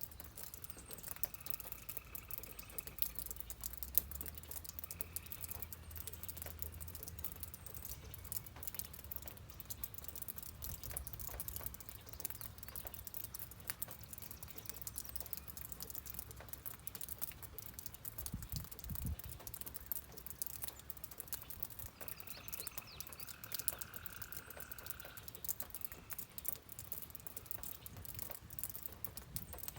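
Rain pattering as a steady crackle of fine drops. A bird gives short whistled calls twice: about a second in and again about two-thirds of the way through.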